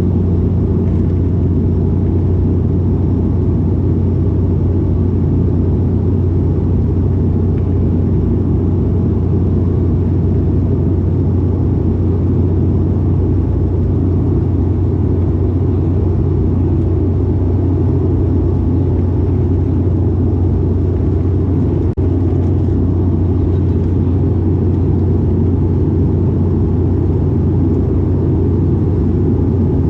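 Cabin noise of a De Havilland Canada Dash 8-400 turboprop: a loud, steady drone from its six-bladed propellers and engines, with a strong low hum. A single brief click comes about two-thirds of the way through.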